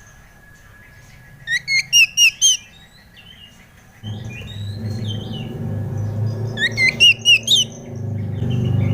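Oriental magpie-robin (kacer) singing: two quick runs of about five loud, rising whistled notes, with softer chirps between them. From about four seconds a low steady hum rises underneath.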